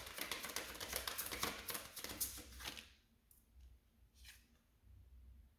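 A deck of tarot cards being shuffled: a rapid crackle of cards for about the first three seconds, then a few faint single card clicks.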